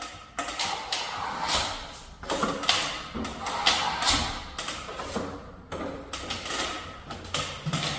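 Sponge float rubbing over wetted filler on a plasterboard patch, smoothing the edges fine: a run of short swishing strokes, roughly two a second.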